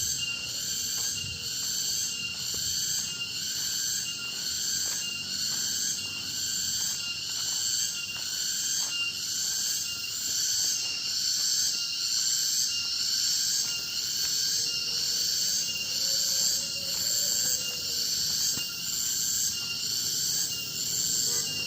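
A chorus of forest insects calling in a high, steady drone that swells and fades about once a second.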